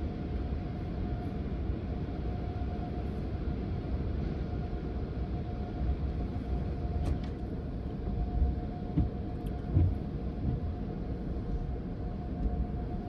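Pickup truck idling, a steady low rumble heard from inside the cab, with a constant hum over it and a few soft thumps about two-thirds of the way through.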